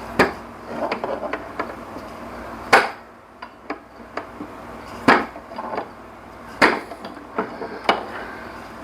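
Hammer blows on metal: five sharp strikes spaced a second or two apart, with lighter taps between, knocking down an interfering rivet so the alternator bracket can slide into place.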